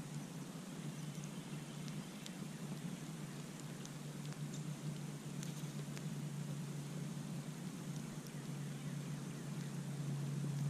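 Campfire crackling: scattered sharp pops and snaps from the burning wood over a steady low rumble.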